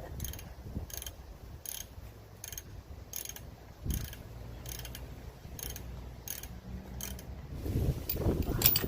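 Hand socket ratchet wrench being worked in steady strokes, a burst of pawl clicks about one and a half times a second. Louder clunks and handling noises near the end.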